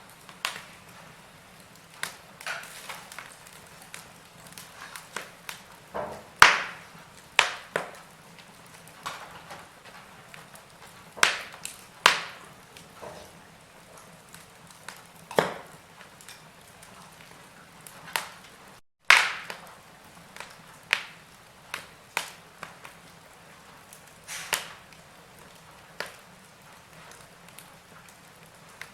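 Wood fire in a fireplace crackling, with irregular sharp pops and snaps over a faint steady hiss. The sound cuts out for a split second about two-thirds of the way through, just before one of the loudest pops.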